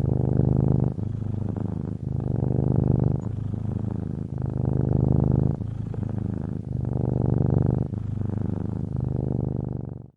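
Domestic cat purring close to the microphone: a steady low rattling buzz that swells and eases every second or so as the cat breathes in and out.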